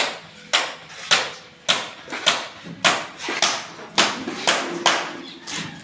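Repeated hammer strikes, about two a second, each a sharp knock with a short ring, like steady hammering on a building site.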